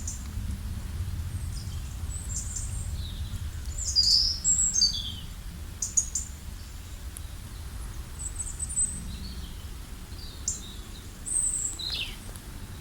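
Wild birds chirping and calling in short, scattered bursts, several overlapping, over a steady low rumble.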